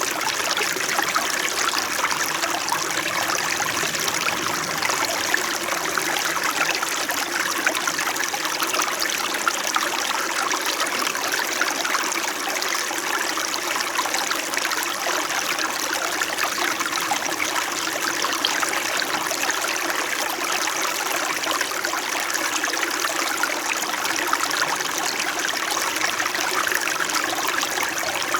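A small mountain stream babbling and trickling over rocks, a steady flowing-water sound with a gentle, slow-moving character.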